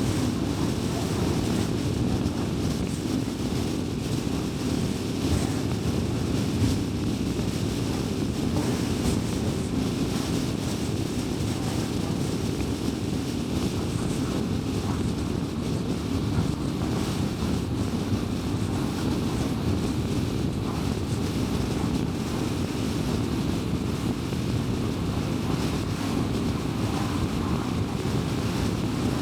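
Steady road noise of a car being driven: a constant low rumble of tyres and engine with no changes or distinct events.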